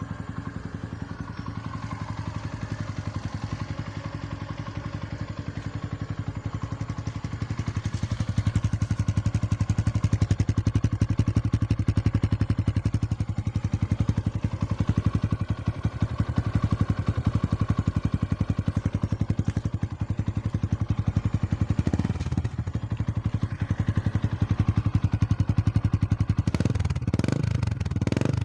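Yamaha Sniper 150 single-cylinder four-stroke engine running through an aftermarket Spyker exhaust pipe, idling with an even exhaust beat. It gets louder about eight seconds in, and there are a few quick revs near the end.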